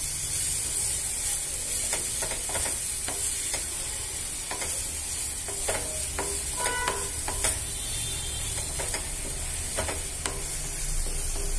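Ground onion paste sizzling in hot ghee in a nonstick pan, with a spatula scraping through it as it is stirred. A short ringing clink comes a little past halfway.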